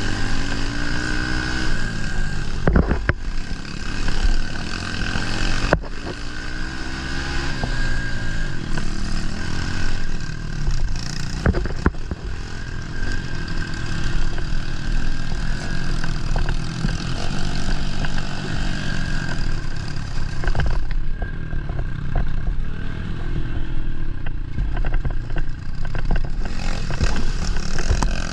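A 110cc pit bike's single-cylinder four-stroke engine revving up and down as the throttle is worked while riding. Several sharp knocks and rattles come from the bike over rough ground.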